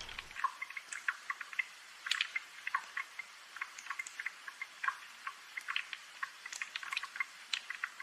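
Rain dripping and pattering: irregular single drops tapping several times a second over a soft hiss. A low rumble stops just after the start.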